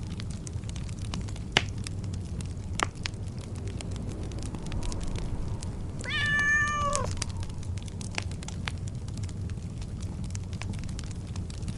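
A cat meows once, a single call about a second long that drops in pitch at the end. Under it, a wood fire crackles steadily with scattered sharp pops and a low rumble.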